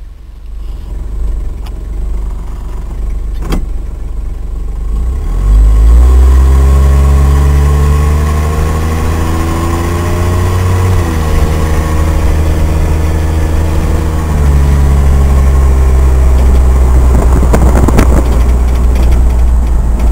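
1985 Jeep Grand Wagoneer's AMC 360 V8, heard from inside the cabin, pulling away through a new muffler: the engine pitch climbs for several seconds, drops as it shifts up about eleven seconds in, then holds steady as the truck cruises.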